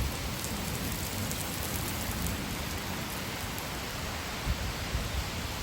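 Steady rain falling, an even hiss, with a couple of soft low knocks near the end.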